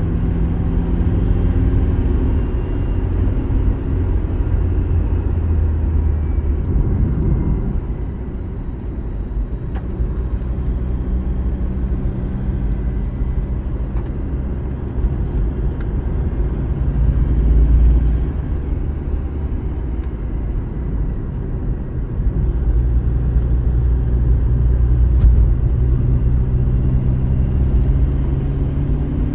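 Car engine running with road rumble while driving; the engine note shifts a few times.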